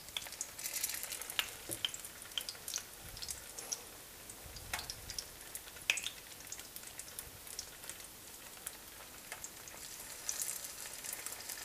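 Grated-potato pancakes (draniki) frying in hot vegetable oil in a pan: a faint, steady sizzle with scattered crackles and a few light clicks.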